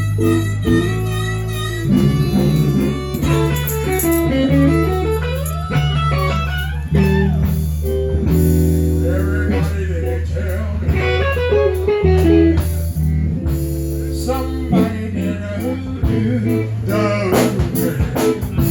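Live blues band playing an instrumental break: a guitar lead with bending notes over bass guitar and drums.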